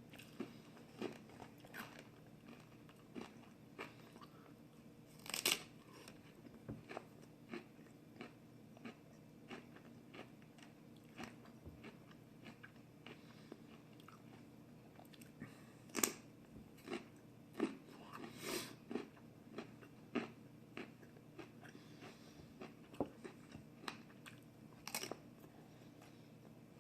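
Person biting into and chewing a hard, crunchy raw food: a steady run of crisp chewing crunches, about one or two a second, with four louder, sharper bites spread through it.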